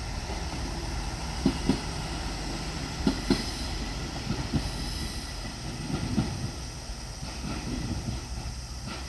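JR Shikoku Series 1200 diesel railcar passing, with a steady low engine and running rumble. Its wheels clack over a rail joint in pairs, five times, about every one and a half seconds.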